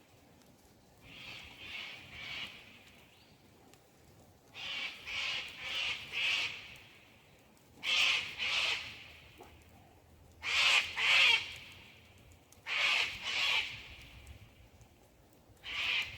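A bird calling: short bouts of two to four harsh notes, repeated every two to three seconds and getting louder.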